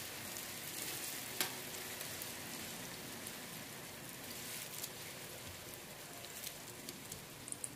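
Diced-eggplant batter sizzling in hot oil in a frying pan as it is poured in and spread with a spoon, with scattered small pops and one sharp click about a second and a half in.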